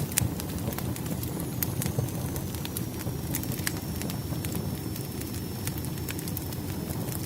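Firewood burning in a fireplace: a steady low rumble of flame with frequent sharp crackles and pops scattered irregularly.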